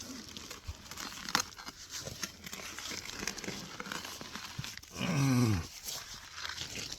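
Digging in wet soil around a root: scraping, crunching and scattered clicks of the tool and dirt. About five seconds in, a short, falling grunt of effort is the loudest sound.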